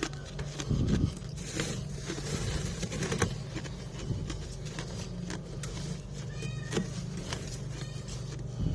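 Close crisp crunching and clicking of freezer frost being bitten and chewed, over a steady low hum. A cat meows briefly about six and a half seconds in.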